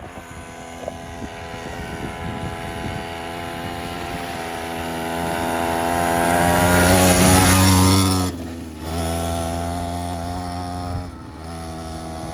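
Small 50cc quad bike engine running hard at full throttle, getting louder as it approaches. About eight seconds in it drops off suddenly, then runs on more quietly.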